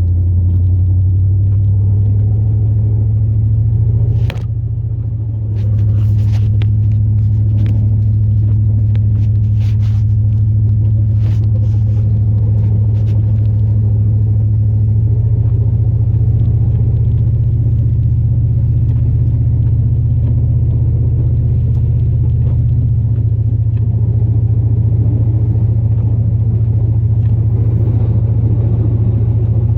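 Low, steady rumble of a 2002 Chevrolet Silverado plow truck's 8.1-litre big-block gas V8 driving. There is a sharp knock about four seconds in and the sound is briefly quieter, and the drone's pitch steps up around the middle and shifts again later, as the engine speed changes.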